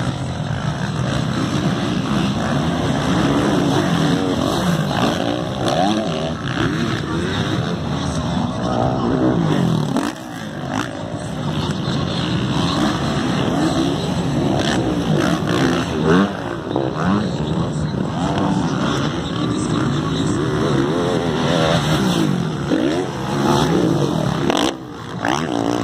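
Motocross bike engines racing, revving up and down repeatedly as the riders accelerate and back off around the track, with several engines overlapping.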